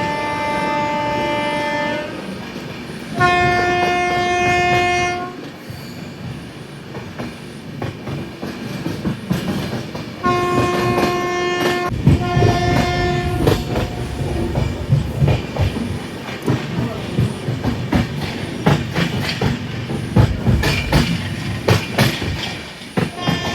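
Express passenger train's locomotive horn sounding four blasts: one ending about 2 s in, one of about two seconds soon after, then two shorter blasts close together about 10 s in. After that, the coach wheels clatter rhythmically over the rail joints at running speed.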